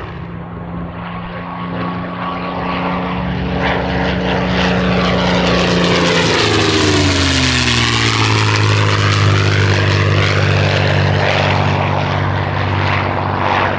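Liquid-cooled V-12 engine of a WWII fighter on a low flyby. The engine grows louder on approach, its note drops in pitch as the plane passes about seven seconds in, and it stays loud as it pulls away.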